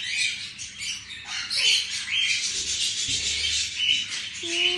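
Pet parrot making soft, scratchy chattering calls, a short burst about every half second with a few brief chirps. A steady held note starts near the end.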